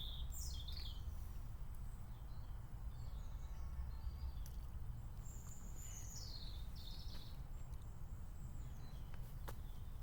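Wild birds chirping in short calls, a few about half a second in and more around five to seven seconds, over a steady low rumble.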